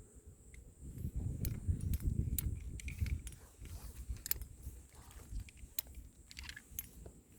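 Metal climbing gear clinking in a run of sharp clicks, over low, rough rustling and scuffing that is loudest in the first half.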